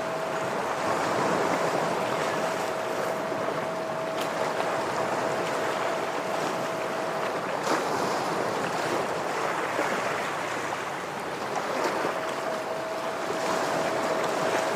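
Ocean waves washing steadily against shoreline rocks. A thin, steady hum on one tone sits above the surf, dropping out about halfway through and coming back near the end.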